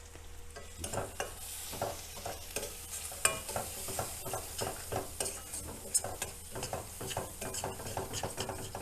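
A spatula stirring and scraping spices through onion-tomato masala frying in a kadai, in short strokes about two to three a second starting about a second in, over a steady sizzle of the frying paste.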